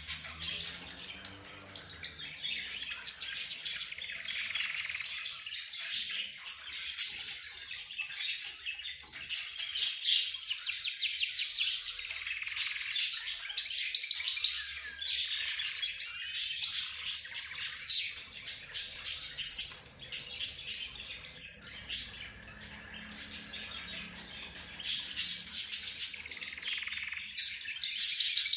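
A mixed flock of cage birds (budgerigars, lovebirds, zebra finches and a canary) chirping, chattering and trilling over one another without a break.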